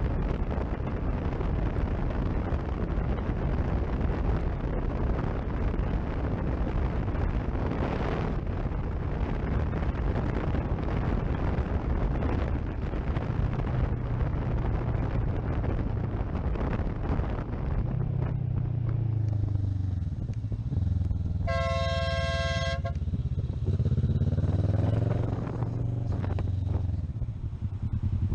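Motorcycle riding on the road, its engine running under heavy wind noise. About 22 seconds in, a vehicle horn sounds once, held for just over a second, and then the engine revs up and down.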